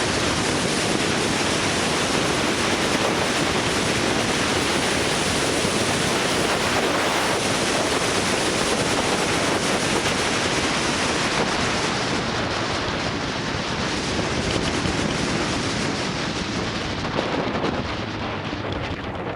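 Wind rushing over the microphone of a moving motorbike, a loud steady roar of air and road noise. It eases a little near the end.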